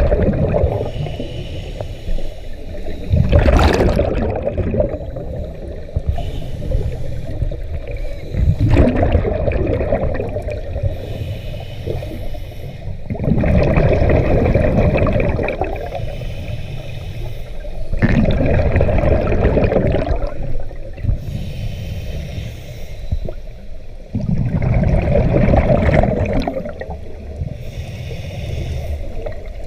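Scuba diver breathing underwater through a regulator: a gurgling rush of exhaled bubbles about every five seconds, six times, with quieter stretches of inhalation between.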